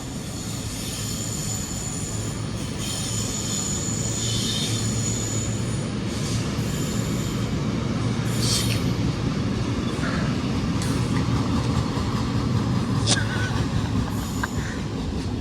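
Passenger train running on the tracks through the station, a steady rumble that grows louder, with high-pitched wheel squeal for the first few seconds and a few sharp clicks later.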